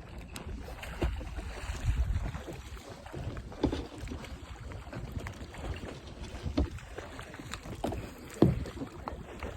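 Water sloshing and splashing around kayaks, with wind buffeting the microphone. A few sudden louder sounds stand out, the strongest near the end.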